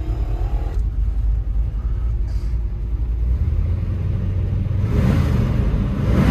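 The Blueprint 400 small-block V8 of a 1979 Chevy K10 4x4, heard from inside the cab on the move: a steady low exhaust and road rumble. A brief whine stops under a second in, and the rumble grows louder and fuller about five seconds in.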